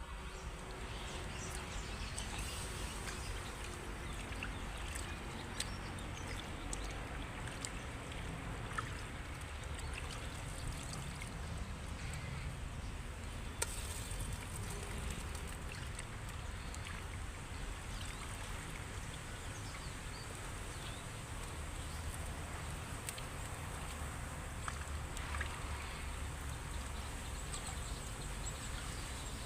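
Steady rain falling, an even hiss with scattered light ticks.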